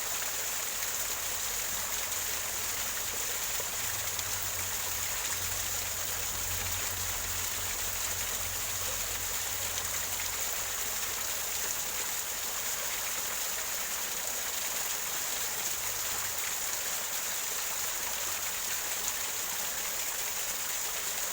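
Small waterfall splashing and gurgling over rocks into a stream: a steady, even rush of water.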